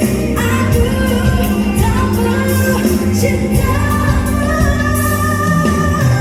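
Live pop performance: a female vocalist singing over a full band with a regular beat, holding long sustained notes in the second half.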